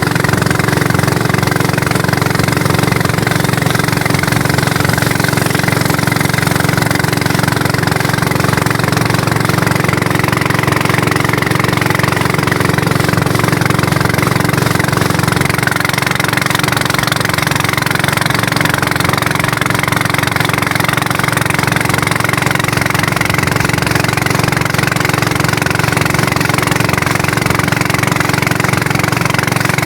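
A small engine running at a steady, unchanging speed.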